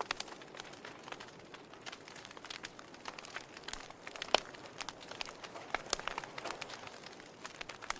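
Wood fire crackling in a fireplace: irregular sharp pops and snaps over a faint hiss, with one louder pop about halfway through.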